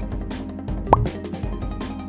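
Background music for a quiz with a steady beat, and a short rising "bloop" sound effect about a second in.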